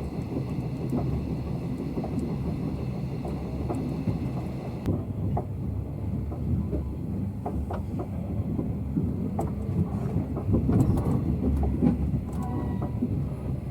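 Train running on the rails: a steady low rumble with irregular clicks and knocks from the wheels and track. A steady hiss over it cuts off suddenly about five seconds in.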